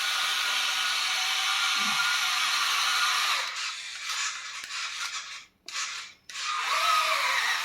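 Electric motor and drivetrain of a remote-control off-road truck whining as it drives, steady at first, then cutting out twice briefly before coming back with rising and falling pitch as the throttle is worked.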